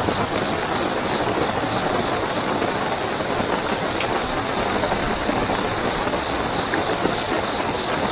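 Steady heavy rainfall with a continuous high cricket trill held on one pitch above it, and a few faint drop ticks.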